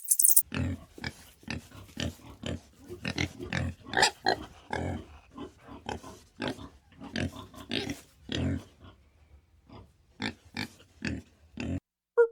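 A farm animal making a quick, irregular run of short grunting calls, two or three a second, which stops shortly before the end.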